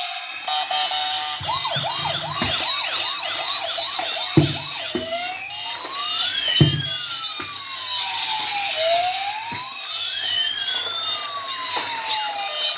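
Battery-powered toy siren: a fast yelping sweep that gives way, about five seconds in, to a slow wail rising and falling twice, over steady high electronic toy tones. Two dull knocks sound in the middle.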